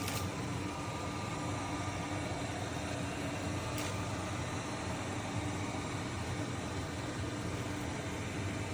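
iRobot Roomba 105 robot vacuum running while cleaning, a steady whirring hum of its suction motor and brushes.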